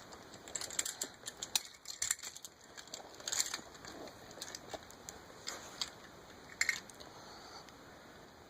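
Light, irregular clicks and taps of a toy train and its track pieces being handled and set down.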